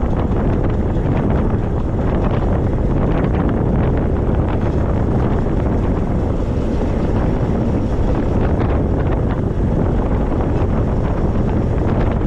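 Wind rushing over the microphone on a moving e-bike: a steady low rumble and hiss.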